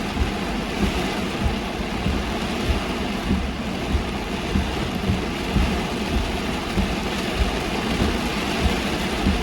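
Heavy rain on a car driving on a wet road: a steady hiss of rain and tyre spray under the car's running engine, with irregular low thumps throughout.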